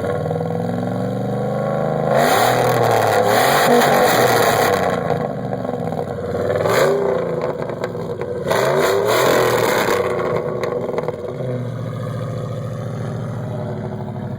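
Dodge Durango's 4.7 V8 on a straight-piped 2-inch exhaust, loud, revved up three times (a long rev, a short blip, then another rev) before settling back to a steady idle near the end.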